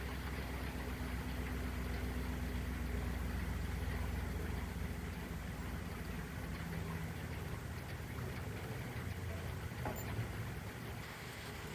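A steady low motor hum, like an idling engine, over a light hiss of rain.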